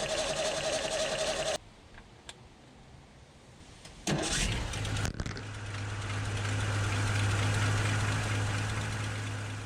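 The 1978 Ford F150's starter whirs with a steady whine, then stops suddenly. After a couple of clicks, the engine fires about four seconds in and settles into a steady run that grows louder. This is the truck starting after its starter replacement.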